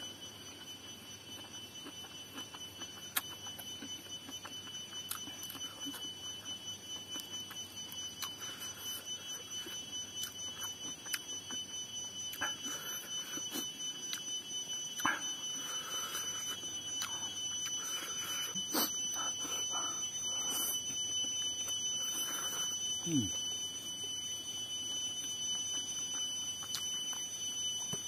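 Close chewing and mouth sounds of someone eating rice by hand off a banana leaf, going about twice a second, with scattered small clicks. A steady high whine runs underneath throughout.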